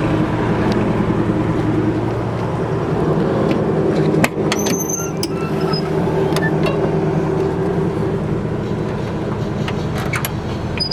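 A 350 V8 with headers and dual exhaust idling steadily and running smoothly. There is a single sharp click about four seconds in.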